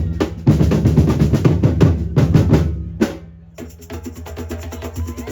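A drum band playing a loud, fast beat on bass and snare drums. It fades out about three seconds in, and quieter rhythmic music takes over.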